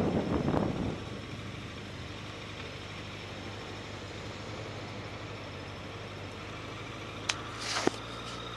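Motorcycle engine idling steadily after the bike comes to a stop, as wind rush on the microphone fades away in the first second. A couple of short sharp clicks come near the end.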